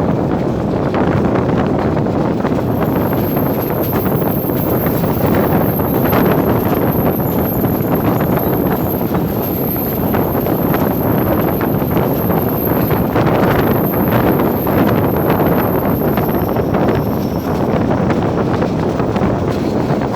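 Steady running noise of a moving passenger train, with wind buffeting the microphone.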